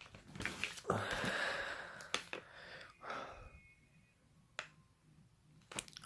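Rustling and scraping of cardboard and plastic as firework packaging is handled, with a few sharp clicks and taps, busiest in the first half.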